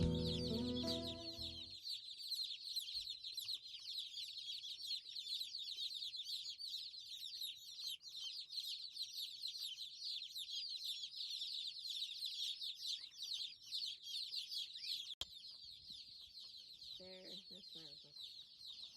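A crowd of Rainbow Ranger meat chicks peeping continuously: many high, short cheeps overlapping into a steady chorus. Background music plays under it and stops within the first two seconds.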